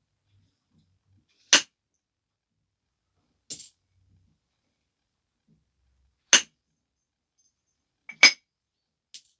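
Stone biface being knapped: sharp stone-on-tool clicks as flakes come off, spaced a couple of seconds apart. Three are loud, one of them doubled; two are fainter.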